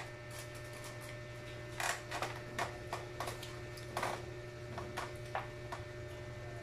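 Children eating chicken feet with their hands: scattered, irregular clicks of chewing and lip smacking, over a steady low hum.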